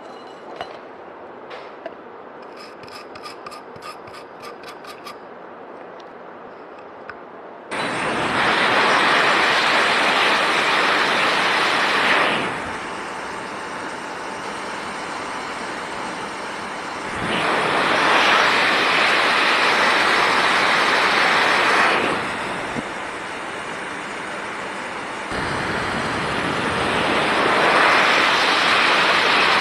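Loud, even rushing noise in three long stretches of about four to five seconds, with a quieter steady rush between them; the first stretch comes in suddenly after a quiet opening with faint clicks.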